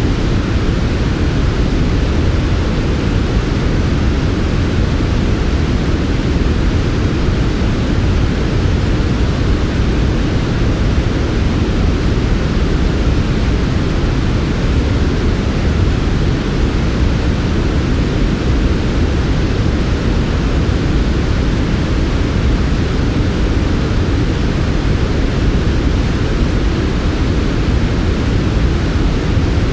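Steady, unbroken synthetic noise of the kind sold as smooth white noise for sleep, weighted to the low end: strongest below about 500 Hz and softened in the treble, with no changes or events.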